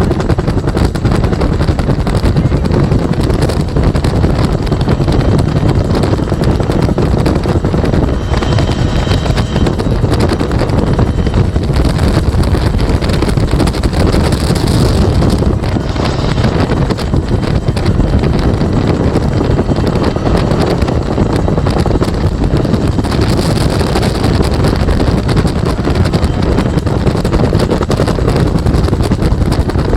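Bell UH-1 Huey helicopter in flight, heard from the gunner seat: the steady, loud noise of its two-blade main rotor and turbine engine, with wind buffeting the microphone.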